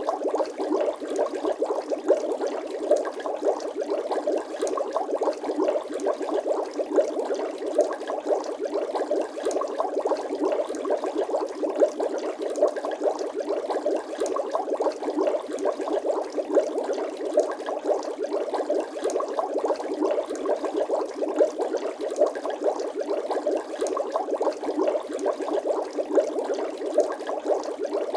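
Bubbling water sound effect: a steady, dense stream of small bubble pops and gurgles, with no deep tones.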